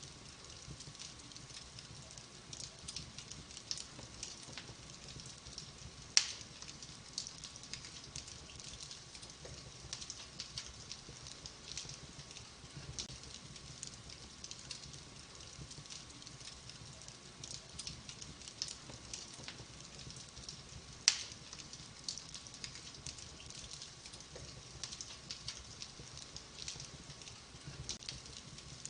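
Wood fire burning in a fireplace, crackling with many small snaps, and two louder pops, one about six seconds in and one about twenty-one seconds in.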